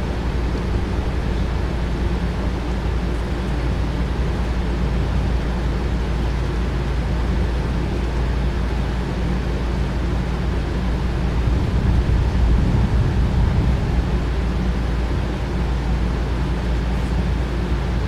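Small electric motors of HO-scale slot cars and a model train running on the layout, a steady whirring hum over a low drone. It grows louder for about two seconds past the middle.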